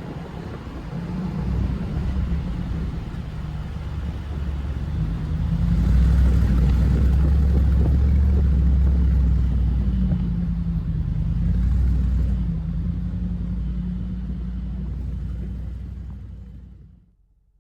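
Mercedes-AMG G63's twin-turbo V8 engine and exhaust running on the move, with a low, steady note that grows louder for several seconds in the middle, then fades out near the end.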